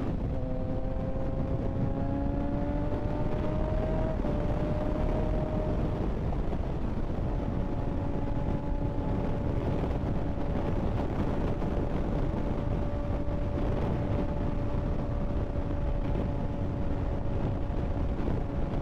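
Kawasaki ZX-6R 636 inline-four engine on the move, its pitch rising gently over the first few seconds as it pulls, then holding a steady note while cruising, over heavy wind rush on the microphone.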